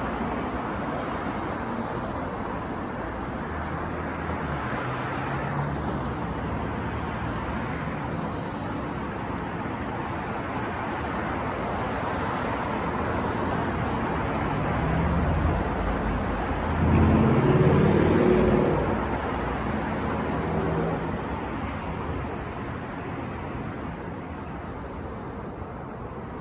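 City street traffic: a steady wash of vehicles passing. About two-thirds of the way through, a heavy vehicle's engine rises louder as it goes by, then fades back into the traffic.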